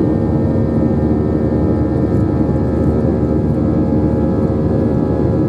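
Airbus A321 jet engines heard from inside the cabin on the ground, a steady drone with several held tones.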